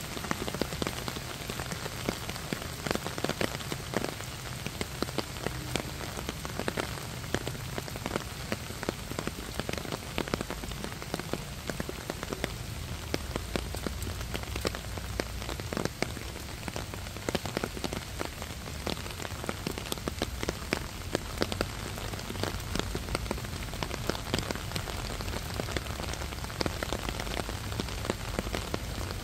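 Steady rain, with many separate drops striking close by at an even, unbroken rate.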